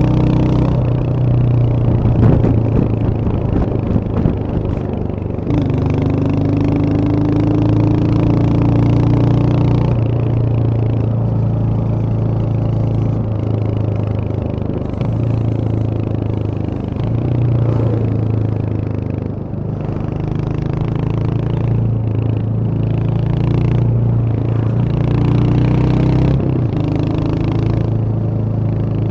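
Royal Enfield Hunter 350's single-cylinder engine running on the move, its exhaust note stepping up and down in pitch several times as throttle and gears change. A few clattering knocks in the first few seconds.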